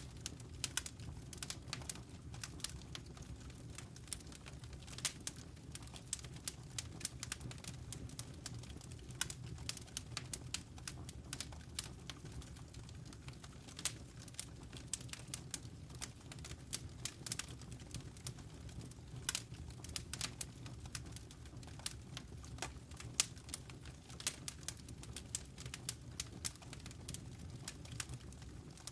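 Wood fire crackling in a fireplace: irregular sharp crackles and pops, several a second, over a steady low rumble of the burning fire.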